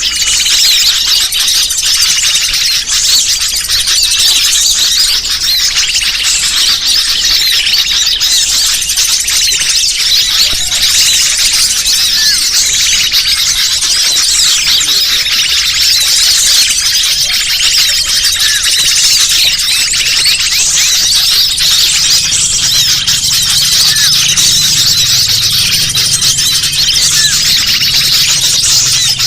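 Dense, continuous chirping and twittering of many small birds at once, a bird-lure (pikat) recording used to call wild birds in.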